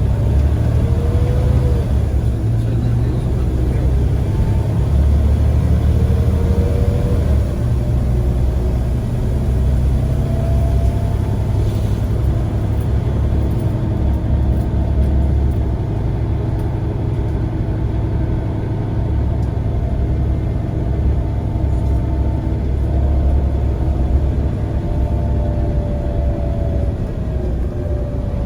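Scania CN94UA single-decker bus on the move: a steady low engine rumble with whining tones that rise and fall as it accelerates and eases off.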